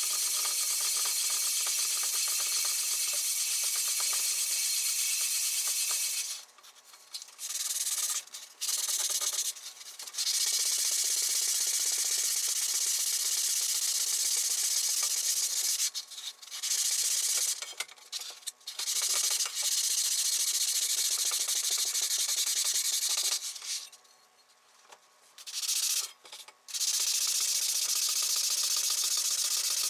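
Sanding: a steady, hissing rub that stops and restarts several times.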